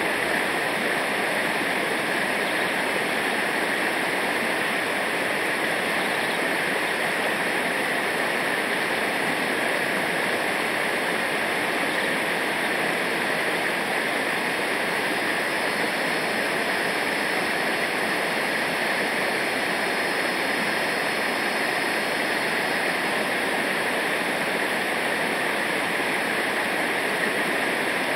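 River rapids or a waterfall rushing steadily, an even wash of water noise.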